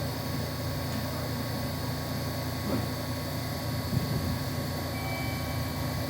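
Steady hum of an electric train on the Tokaido Main Line, with a couple of faint knocks in the middle and a thin high tone coming in near the end.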